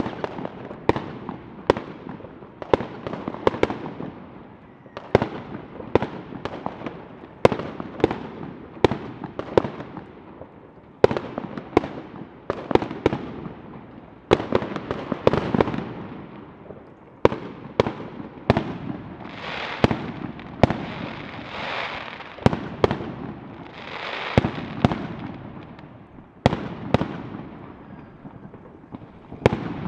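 Fireworks going off: a steady run of sharp bangs, one or two a second, each echoing, with a few longer crackling hisses from bursting shells about two-thirds of the way through.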